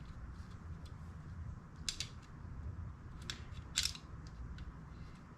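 A few short, sharp clicks of small metal parts and a screwdriver being handled while reassembling a car heater control unit, over a low steady hum.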